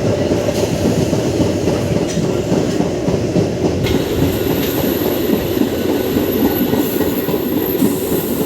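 MEMU electric train running on the rails, a steady loud rumble of wheels and coaches, with a thin high whine coming in about four seconds in.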